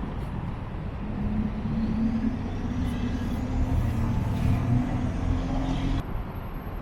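A motor vehicle's engine humming steadily as it goes by, with wind rumbling on the microphone. The hum stops suddenly near the end.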